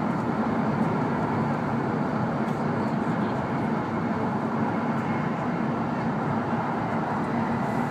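Steady running noise inside the passenger cabin of a W7 series Hokuriku Shinkansen train in motion: an unbroken rushing noise with a low hum.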